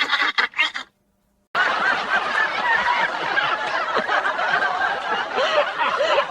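Laughter: snickering and chuckling, several voices overlapping, broken by a short dead-silent gap about a second in.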